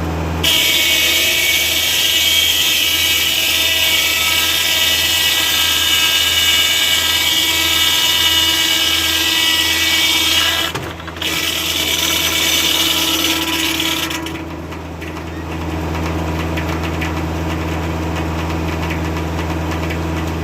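Circular sawmill blade cutting through an oak log, driven by a Kubota tractor's engine. The loud high whine of the cut starts about half a second in, breaks briefly near the middle, and ends about fourteen seconds in, leaving the tractor engine and the spinning blade running steadily.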